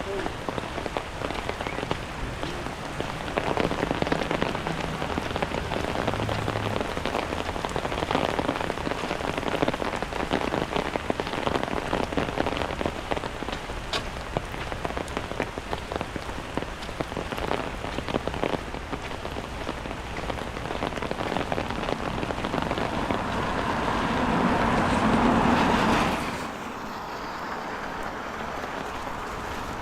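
Steady rain falling on a city street, a dense patter of drops. Near the end a louder rushing swell builds and then cuts off suddenly, leaving quieter rain.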